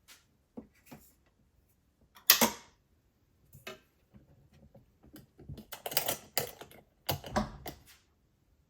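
Small objects being handled, making light clicks and knocks with short quiet gaps between them. There is one louder knock about two seconds in, and a busier run of clicks and knocks in the second half.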